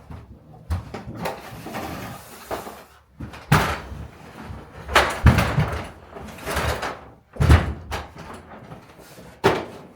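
A string of heavy knocks and thumps in a room, about half a dozen spread a second or more apart, with rustling handling noise between them.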